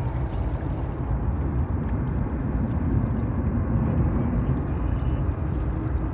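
Steady low roar of a Boeing 747-8i's jet engines heard from a distance during its takeoff, with no rise or fall.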